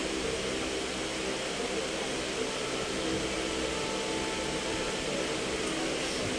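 Heavy monsoon rain falling, a steady even hiss, with a steady low hum underneath.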